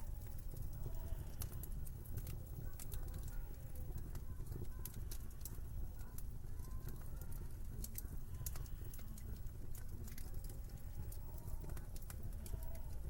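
Wood fire crackling in a fireplace: irregular sharp snaps and pops over a steady low rumble, with a few faint wavering tones near the start and the end.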